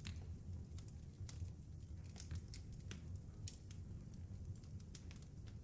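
Faint crackling of a wood fire in a fireplace, irregular sharp pops and snaps over a low steady rumble.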